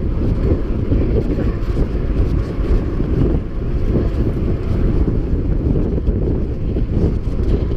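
Wind buffeting a camera microphone on a mountain bike riding at speed: a steady low rumble with no distinct knocks or tones.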